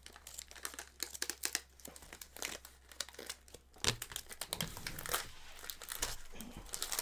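Foil Pokémon TCG booster pack wrapper crinkling as it is torn open and handled: a dense run of sharp crackles.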